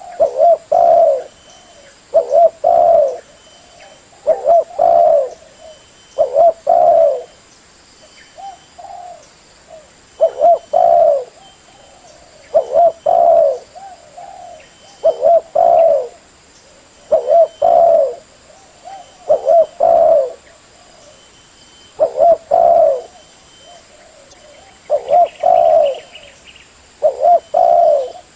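Spotted dove cooing: a short phrase of several low coo notes, repeated about every two seconds.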